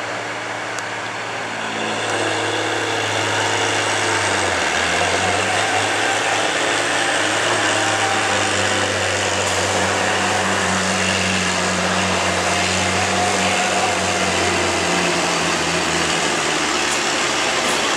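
A street-stock semi truck's diesel engine runs hard under load in a truck pull. It grows louder about two seconds in, and its pitch steps down and up a few times before easing off near the end.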